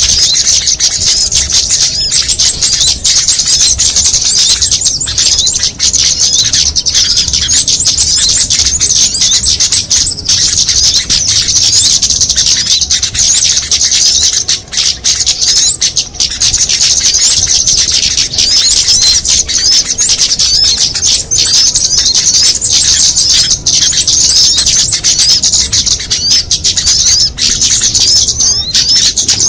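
Bird-lure recording of many small songbirds calling at once: a dense, loud, unbroken chatter of quick high chirps and trills.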